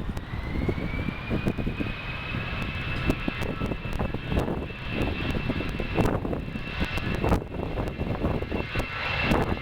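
Jet airliner engines running, a high whine that rises in pitch over the first couple of seconds and then holds steady over a low rumble.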